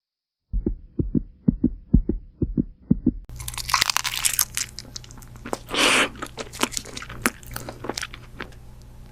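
Food crunching up close to the microphone as it is bitten and chewed, a run of sharp crackles over a steady low hum starting about three seconds in. Before that, a quick run of low thumps, about three to four a second.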